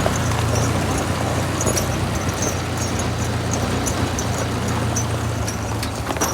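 1955 Ford 660 tractor's 134 cubic inch Red Tiger engine running steadily under way in third gear, with light high ticking about twice a second over the engine note.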